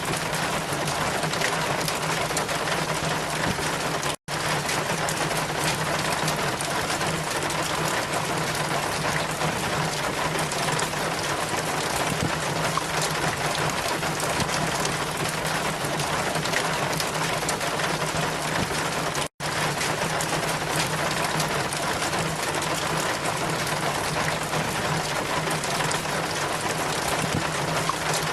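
Steady, dense rainfall hiss with no rise and fall, dropping out for an instant twice, about four seconds in and again about fifteen seconds later.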